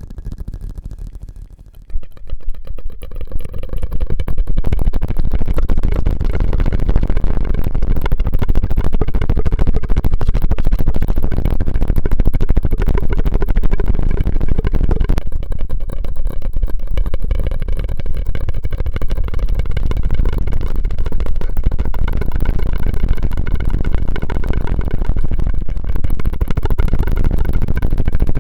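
Close-miked drinking straw worked with the mouth, giving a loud, continuous crackling rattle made of very rapid clicks. It starts about two seconds in and holds steady.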